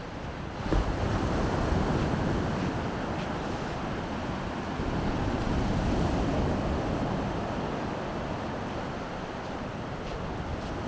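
Sea surf washing onto the shore, swelling and easing over several seconds, with wind rumbling on the microphone.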